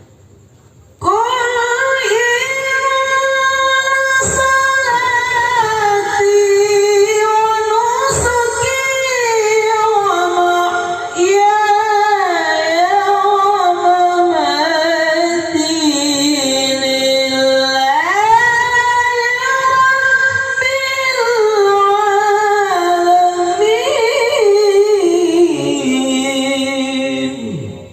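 Solo Quran recitation (tilawah) in a high voice: long, ornamented melodic phrases sung by a single reciter. It starts about a second in and pauses briefly for a new breath about 18 seconds in.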